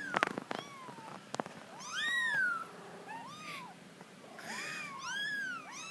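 Kitten mewing repeatedly: a string of short, high calls, each rising then falling in pitch, the loudest about two seconds in. A few sharp taps sound near the start.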